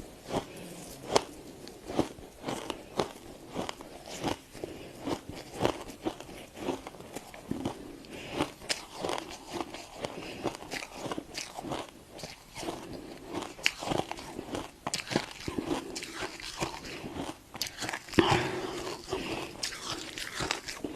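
Freezer frost being bitten and chewed up close: a run of sharp crunches and crackles, some bites louder than others.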